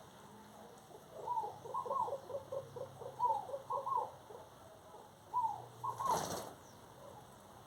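A bird calling in runs of short, low repeated notes, about four a second, from about a second in until about four seconds, and again briefly near six seconds. A short burst of rustling noise follows just after six seconds.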